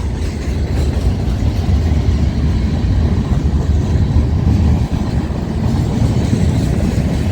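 Freight train rolling past: a steady, loud low rumble of wheels and cars, mixed with wind buffeting the microphone.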